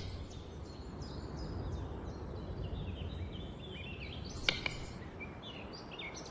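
Small birds chirping and singing, many short high notes repeating over a low steady background rumble, with one sharp click about four and a half seconds in.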